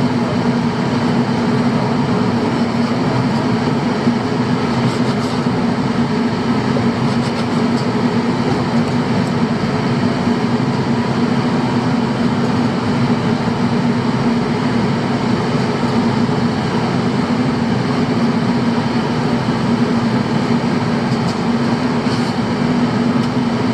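Fishing boat's engine running with a steady, unchanging drone.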